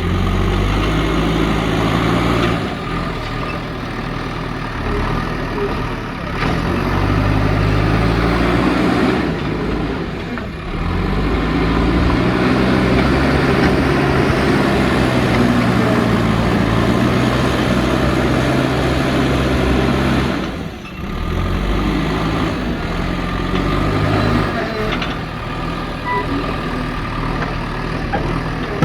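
JCB backhoe loader's diesel engine working under load while loading soil, its pitch stepping up and down as it revs. The sound drops briefly twice, about ten and twenty-one seconds in.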